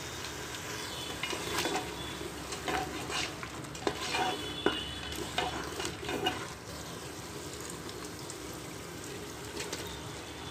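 Meat, onions and spices frying in oil in a metal pressure cooker pot, with a steady sizzle, stirred with a wooden spoon that scrapes and knocks irregularly against the pot for the first six seconds or so.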